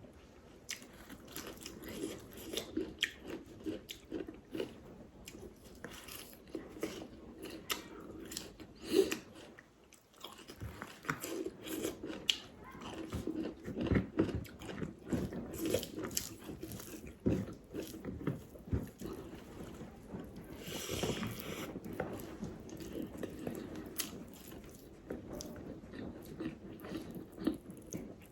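A person chewing and biting food close to the microphone, with crunching and many small, irregular mouth clicks and smacks. There is one short, noisier burst about three-quarters of the way through.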